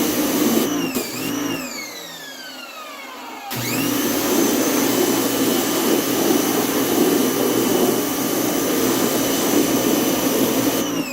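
Electric pressure washer motor switched off, its high whine falling away as it coasts down. It is then switched back on, spins up quickly to a steady high-pitched whine, and is switched off again near the end. The power fault has just been fixed, and the motor now runs normally.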